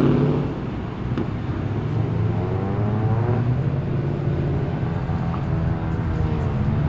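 V8 car engine burbling at low revs as it pulls away, the pitch rising and easing a little a couple of times.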